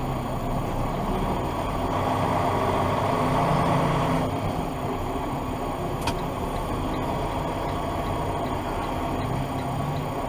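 Steady car engine and road noise heard from inside the cabin, with one short click about six seconds in.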